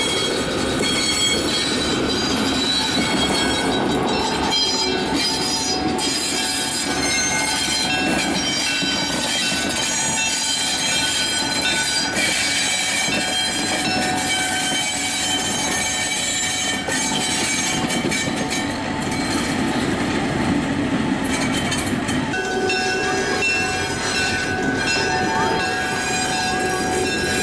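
Passenger train rolling past on steel rails: coaches and a diesel locomotive, with wheel clatter under steady high-pitched wheel squeal.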